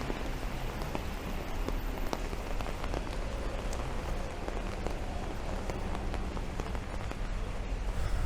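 Steady rain falling, an even hiss with many individual drops ticking, over a low steady rumble.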